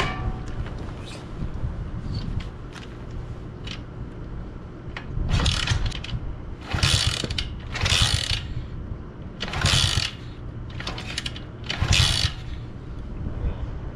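SSR 110cc four-stroke pit bike being kick-started: about six kicks from about five seconds in, the kickstarter ratcheting and the engine turning over without catching.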